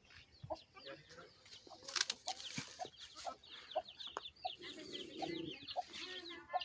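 Birds and poultry: many short, high, falling chirps several times a second, with soft low clucking about halfway through and scattered light clicks.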